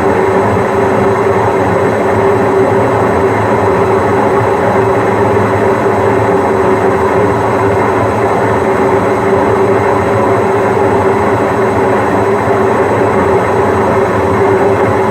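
Washing machine in its spin cycle, the drum turning at a steady high speed: a loud, even whirring hum with one constant tone.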